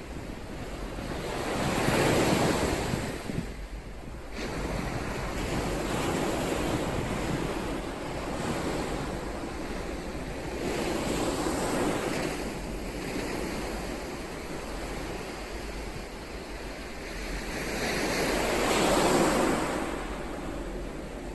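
Ocean waves breaking and washing ashore in slow surges. They swell loud about two seconds in and again near the end, with softer swells between.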